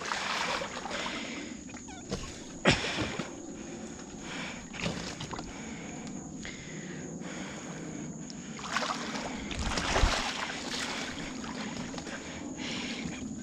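Honda Rancher 420 ATV's single-cylinder engine running while the machine is stuck in muddy ruts, with mud and water sloshing. There is a sharp knock a few seconds in and a louder stretch about nine seconds in, ending in a thud.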